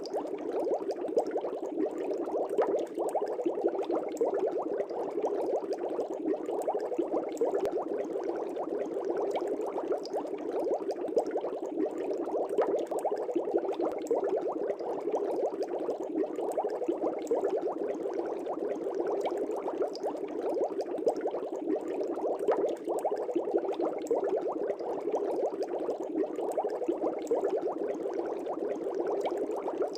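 Air bubbles in a fish tank, a steady burbling made of a dense stream of small bubble pops.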